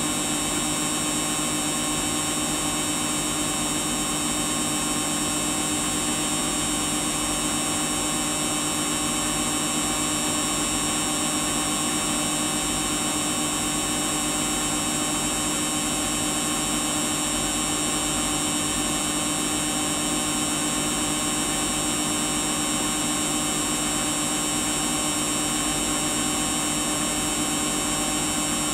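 Samsung washing machine running steadily on its Daily Wash 40 cycle: an even motor whine and hum that holds one pitch, with no pauses or changes.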